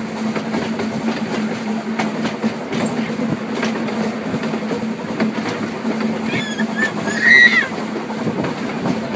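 Narrow-gauge passenger carriage running along the track: a steady rumble and rattle of wheels on rails, with scattered clicks. A brief high squeal about two-thirds of the way through.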